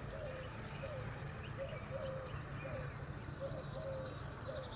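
A bird calling over and over in short, low-pitched notes, about two a second, some of them drawn out, with faint high chirps from small birds and a steady low hum underneath.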